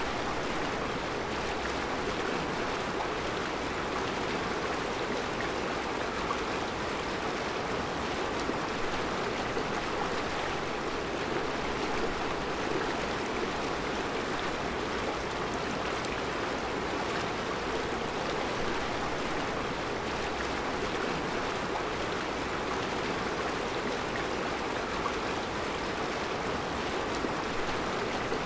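Mountain river flowing over round rocks in a rocky bed: a steady, even rush of water with no change in level.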